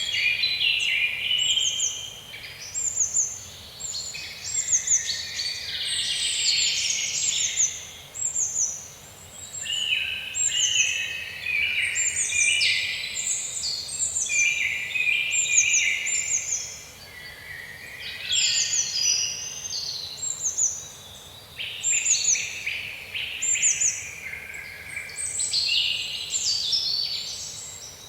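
Several songbirds singing together in a busy chorus of high chirps and quick downward-sweeping notes, repeated over and over.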